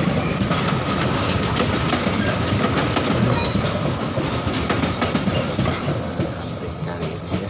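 Economy passenger coaches of the departing KA Cikuray rolling past close by, wheels clattering on the rails. The sound eases off near the end as the last coach goes by.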